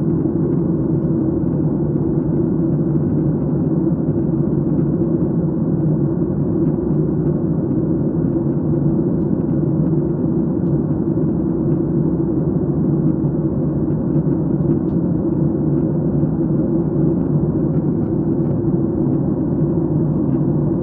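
Steady rumble of an airliner's engines and rushing air heard inside the passenger cabin in flight.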